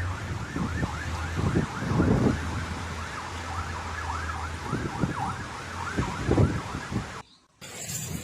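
A siren going in a fast rising-and-falling yelp, two or three sweeps a second, over wind buffeting the microphone. The sound drops out briefly near the end.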